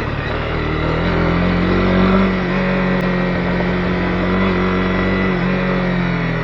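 Honda CB250R's single-cylinder engine running under way at a steady speed, its pitch rising slightly about two seconds in and then holding.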